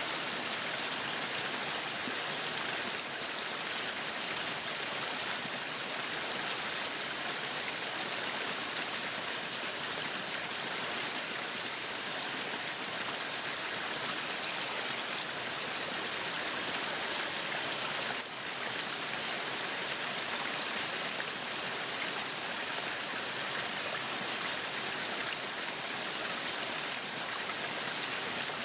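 Meat sizzling on a yakiniku grill: a steady, even hiss with a brief dip about eighteen seconds in.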